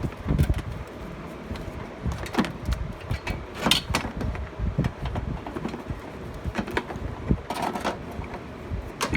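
Irregular metallic knocks, clicks and clanks of hand tools at work on a Honda Odyssey's front engine mount, over a steady low rumble of wind on the microphone.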